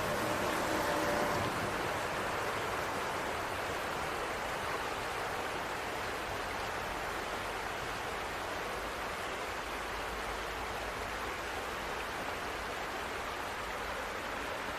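Steady rushing ambience after rain, an even noise like running water or wet traffic, with a faint low hum in the first second or so.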